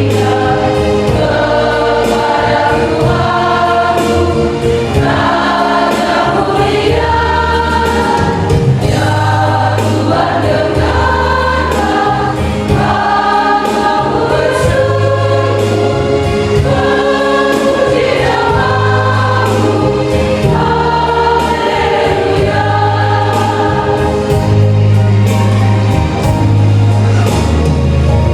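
A church choir singing in several voice parts over an instrumental backing, with a steady bass line and a regular beat.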